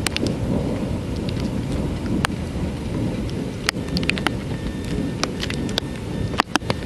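Thunderstorm: a low rumble of thunder rolls on throughout under steady rain, with raindrops striking a nearby surface as scattered sharp clicks.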